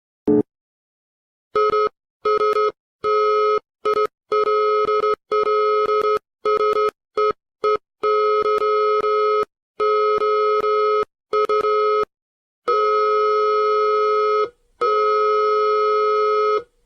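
Telephone-style electronic signal tone, one steady pitched note, switching on and off in an irregular run of short and long beeps, after one brief burst of sound just before the beeps begin.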